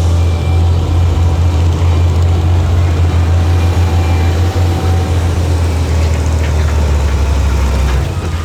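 Heavy diesel engine of earthmoving machinery running steadily under load, a deep drone that drops in level near the end.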